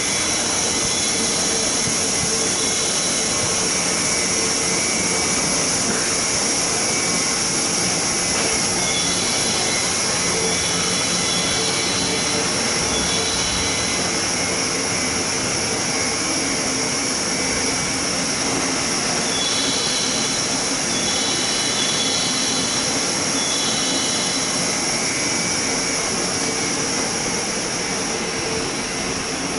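JR West 201 series electric commuter train moving slowly through the station, a steady running hiss with short high-pitched wheel squeals coming and going, most often in the second half.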